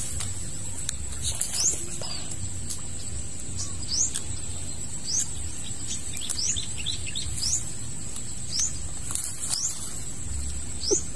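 A bird repeating a short, high, rising chirp about once a second, over a steady high-pitched tone.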